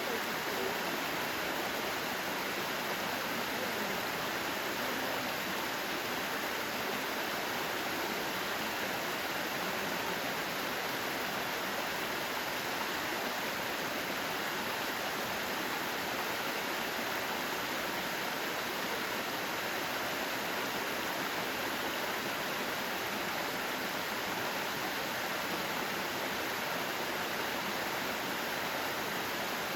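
Mountain stream water running steadily, an even unbroken rush of flowing water.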